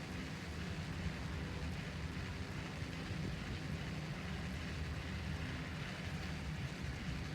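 A steady low motor rumble under a constant wash of noise.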